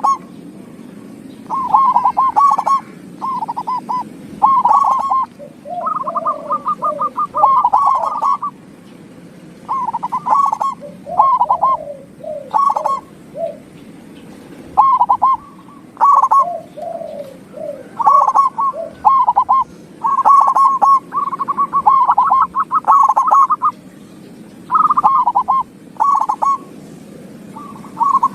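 Zebra dove (perkutut) cooing: about a dozen bursts of quick stuttering notes, some ending in lower falling coos, with short pauses between. A steady low hum runs beneath.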